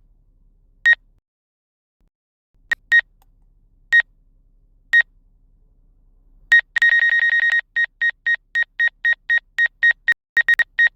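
Drone controller app's obstacle-proximity warning beeping, a high pitched electronic tone. Single beeps come about a second apart. Then, a little past halfway, one longer tone gives way to fast beeping at about three a second as the drone closes on the window and its obstacle sensing refuses to fly through.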